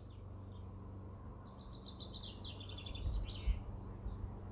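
A songbird singing a quick trill of high, rapidly repeated chirps, starting about a second in and lasting about two seconds, over a faint steady low hum. A few low bumps come near the end.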